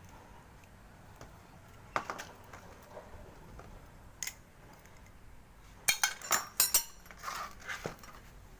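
Metal tools and parts clinking and knocking against each other as they are handled: a single knock about two seconds in, another after four seconds, then a quick run of sharp clinks near the end.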